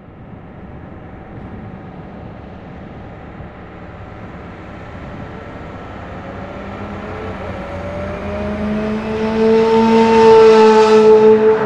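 Sports car engine accelerating, its note rising in pitch and growing steadily louder, then cut off suddenly near the end.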